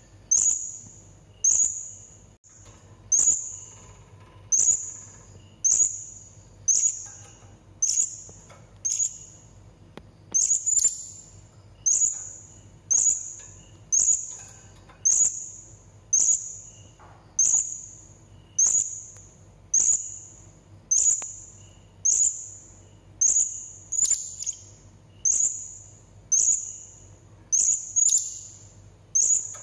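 Blue-crowned hanging parrot (serindit) giving a short, shrill, very high-pitched call over and over, about once a second.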